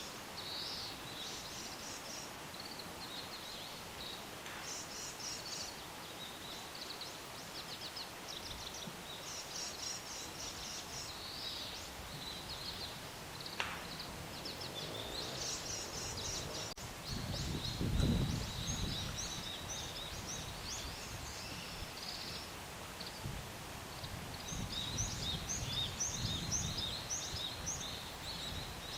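Small wild birds chirping and calling, many short high notes in quick strings, busier toward the end. A brief low rumble comes about eighteen seconds in.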